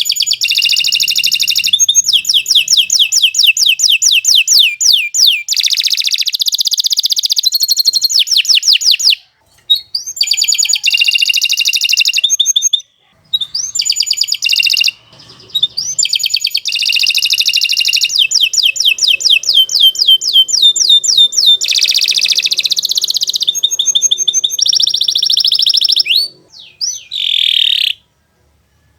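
Domestic canary singing a long, loud song of fast trills and rapid repeated notes, broken by a few short pauses.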